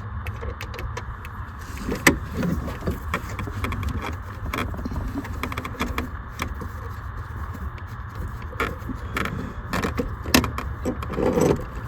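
Small metal parts being handled, with scattered clicks, knocks and light rattles as a CB radio and its mounting brackets are worked loose, over a steady low hum. The sharpest knock comes about two seconds in, and a cluster of clicks follows near the end.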